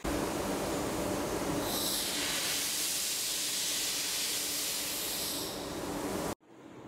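Steady loud hiss that grows sharper and higher in the middle, then cuts off abruptly near the end.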